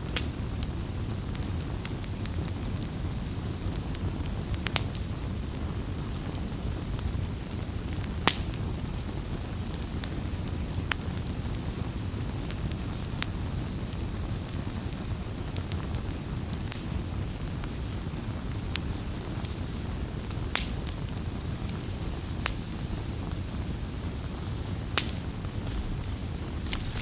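Wood campfire burning, with a steady low rumble and hiss from the flames and sharp crackling pops at irregular intervals.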